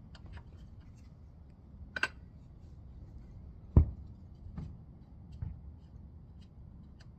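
Scattered light clicks and knocks of tools and parts being handled, with a sharper knock about two seconds in and one louder thump a little over halfway through.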